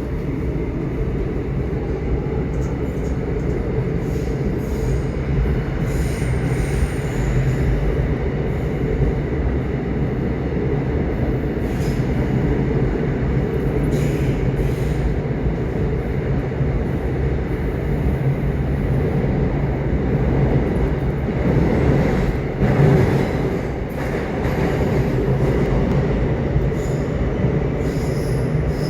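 Subway train running on the track: a steady low rumble of wheels and car body, with scattered clicks, a faint high wheel squeal now and then, and a louder swell about three-quarters of the way through.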